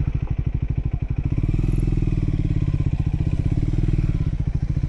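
Triumph Scrambler motorcycle engine running at low revs with an even, rapid pulsing beat. It picks up a little throttle about a second and a half in and eases off near the end.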